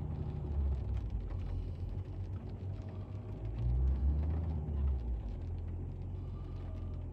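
The 3.0 V6 engine of a 2021 Range Rover Velar running in Park, held by the accelerator at about 1000 rpm, a low hum heard from inside the cabin. It swells a little about half a second in and again around four seconds in as the throttle foot wavers.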